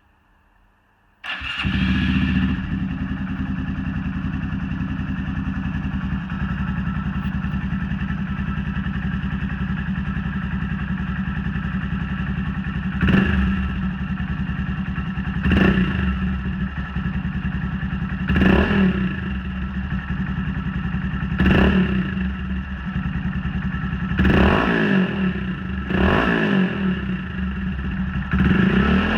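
A Honda Monkey 125's single-cylinder four-stroke engine starts about a second in, through an aftermarket Black Widow exhaust with its baffle in. It idles steadily, then from about halfway on is blipped about seven times in short revs.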